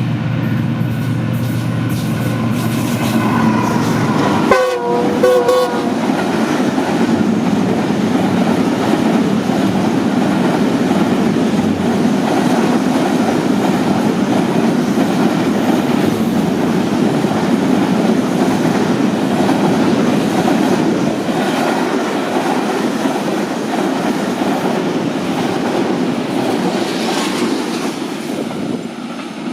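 Train running on the rails, with a short horn blast about five seconds in, then a steady rumble of wheels on track.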